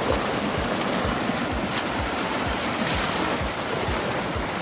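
Fast-flowing water rushing steadily, a dense, even roar of a rain-swollen mountain stream and waterfall.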